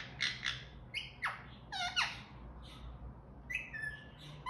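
Parrot chirping and squawking: a string of about ten short, sharp calls, several sliding down in pitch, with a pause of about a second before a last few near the end.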